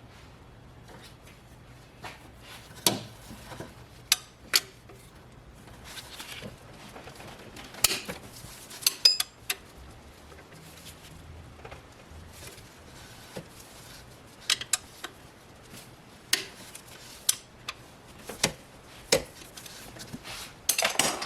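Scattered sharp metallic clinks and knocks of hand tools on the alternator's adjuster and mounting bolts as they are worked loose. The strikes are irregular, a dozen or so, with a quick run of small ticks about nine seconds in and a cluster near the end.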